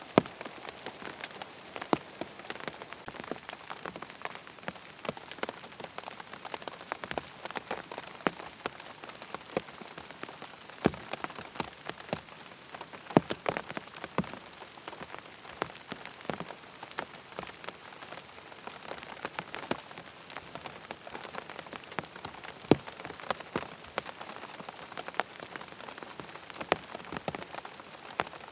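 Steady rain falling on a surface: an even hiss, with many irregular sharp drop ticks, a few of them much louder than the rest.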